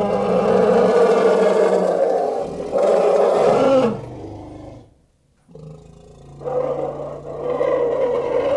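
Elephant calling: a long, loud roaring call, then a short pause about five seconds in, then a second long call.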